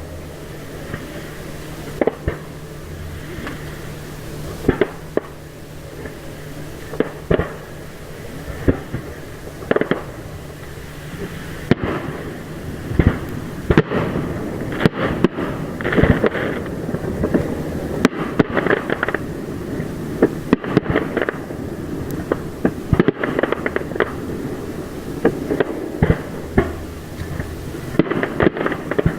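Aerial fireworks shells bursting one after another, sharp bangs with crackling between them. The bursts come every second or two at first and grow much denser and busier from about halfway through.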